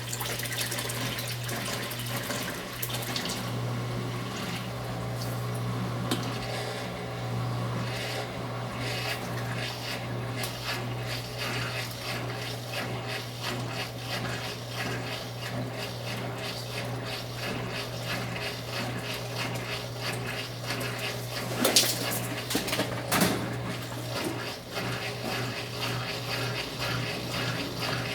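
Brastemp 9 kg top-loading washing machine filling its drum with water: a steady rush of flowing water over a low hum, with two louder knocks near the end.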